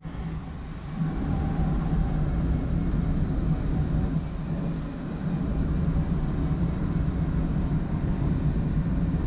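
Steady rumble of airflow in a glider cockpit in flight, with a constant low hum.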